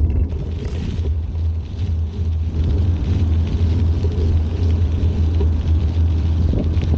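Wind rumbling on the microphone of a camera riding along on a moving bicycle, with a crackly rolling noise from the ride underneath.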